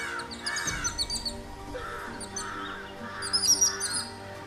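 Crows cawing in a repeated series, with smaller birds chirping in quick high clusters that are loudest about three seconds in, over background music holding sustained low notes.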